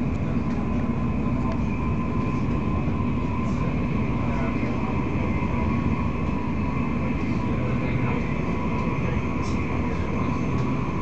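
Steady running noise inside a passenger carriage of an electric train travelling at speed: a constant low rumble from the wheels on the rails, with a faint steady whine above it.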